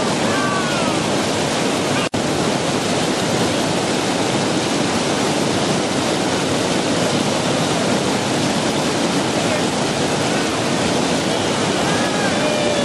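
Loud, steady rushing of whitewater rapids heard from a raft, with faint voices near the start and end. The sound cuts out for an instant about two seconds in.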